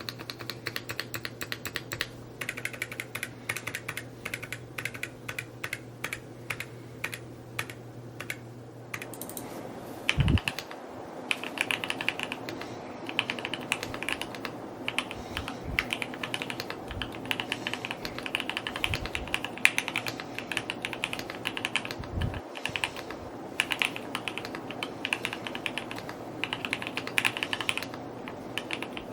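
Fast, continuous typing on a Mode Encore 2 mechanical keyboard, keystrokes clacking in quick succession. About ten seconds in the typing becomes louder and changes character, with a few deeper, heavier keystrokes scattered through.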